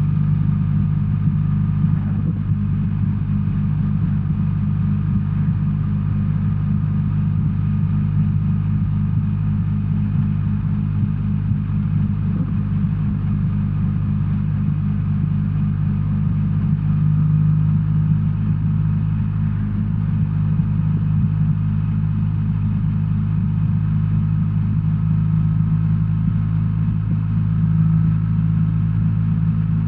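BMW R1300R boxer-twin motorcycle engine running at a steady engine speed, with a deep, even note.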